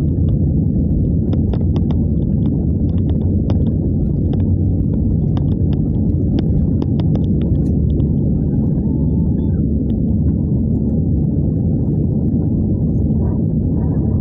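Cabin noise inside an Airbus A320: a steady, loud low rumble of the jet engines and airflow, with scattered light clicks and rattles.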